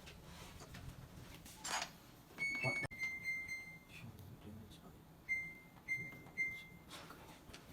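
Electronic button beeps from a Samsung front-load washing machine's control panel as it is set up for a cycle: a short beep, a longer beep of about a second, then three quick beeps about half a second apart.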